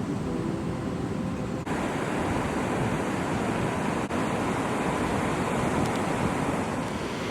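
Ocean surf from a typhoon swell breaking and washing, with wind on the microphone, as a steady rushing noise. The sound changes abruptly twice, about a second and a half in and again about four seconds in.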